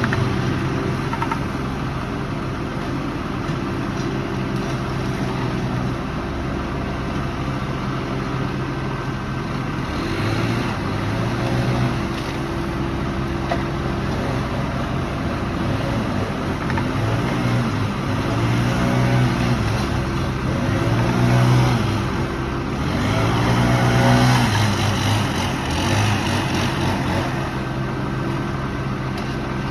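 Engine of heavy machinery running steadily. Its pitch dips and recovers several times, in a run of repeated sags from about halfway to near the end.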